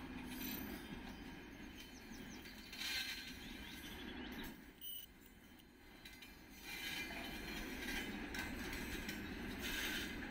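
Covered hopper wagons of a freight train rolling past, with a steady rumble and clatter of wheels on the rails. It goes quieter for a couple of seconds in the middle, then builds again.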